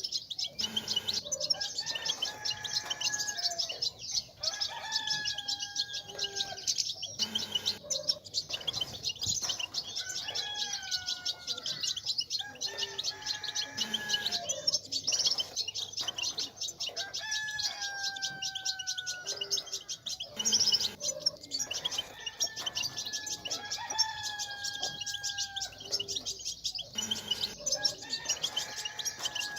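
European goldfinches twittering in dense, very rapid high chatter (the 'babtaba' call used to stir caged males to sing). A lower, drawn-out, slightly falling call comes back every two to three seconds over the chatter.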